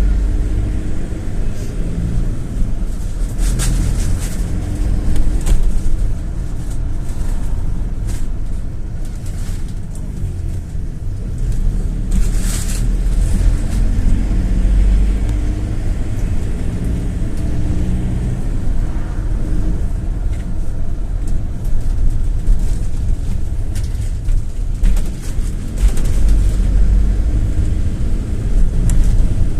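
GAZ Gazelle City minibus on the move, heard from inside the cabin: a steady low engine and road rumble whose engine note shifts up and down, with a few short rattles and clicks.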